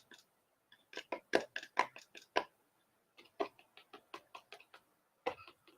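Quick light clicks or taps, about four to five a second, in two short runs with a few scattered ones near the end.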